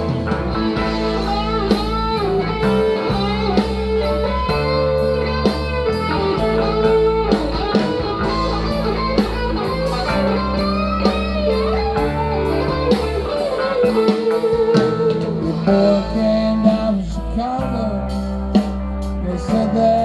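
Live blues band playing an instrumental break: an electric guitar lead with bending notes over bass and a steady drum beat of about two strokes a second.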